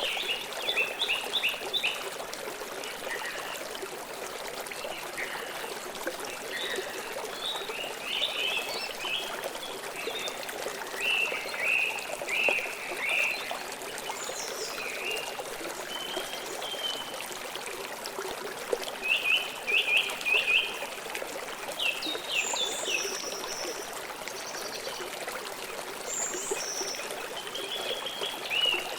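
Steady flow of a forest river, with birds calling over it in short repeated chirp series and a few higher notes.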